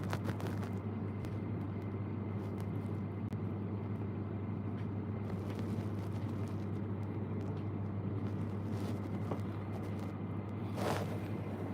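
Steady road and engine noise inside a moving car's cabin, a constant low drone. A short whoosh, like a passing vehicle, comes near the end.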